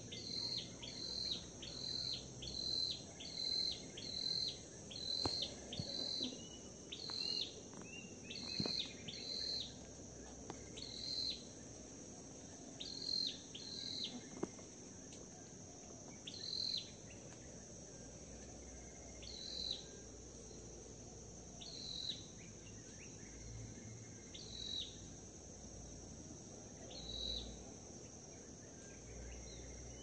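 A forest bird repeating a short, high, falling call, quickly for the first ten seconds or so and then only every two to three seconds, over a steady high insect drone.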